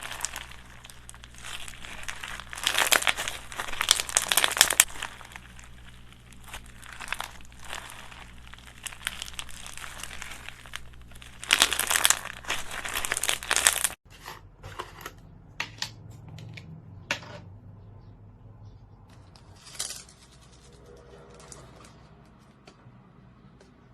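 Slime squished and stretched by hand, crackling and popping in dense bursts. After a sudden break about halfway through, only scattered crackles and one short burst are left.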